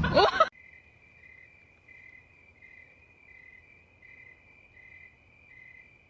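Crickets chirping faintly: a steady high trill with regular pulses, about three every two seconds. It starts right after a loud burst of voice that cuts off about half a second in.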